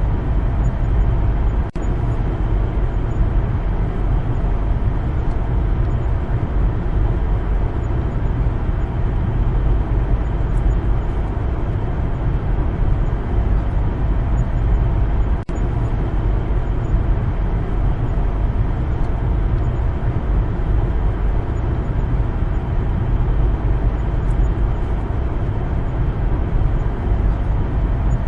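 A car driving at a steady pace: continuous road and engine noise with a deep low rumble, cut by two very brief dips in level, one near the start and one about halfway through.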